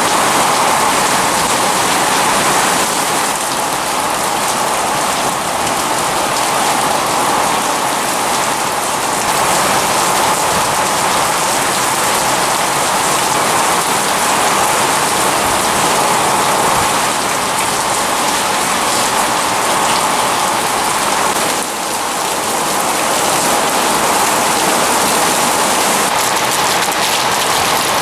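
Sudden heavy rain shower falling hard and steadily on a concrete yard and its puddles.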